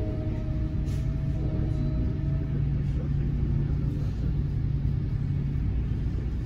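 Steady low rumble of a moving electric commuter train heard from inside the passenger car, with a faint whine that fades out within the first few seconds.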